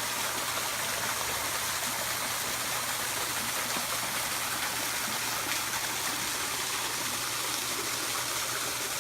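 Steady rush of running water, even and unbroken, with a faint low hum underneath.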